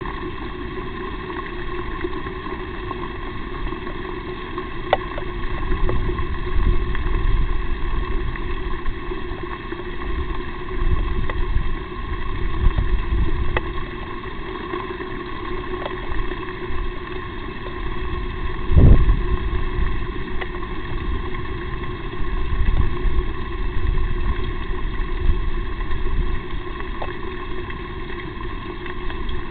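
Steady hiss from a nest-box camera's microphone, with low rumbling that swells and fades, a few faint clicks, and one stronger low thump about two-thirds of the way through.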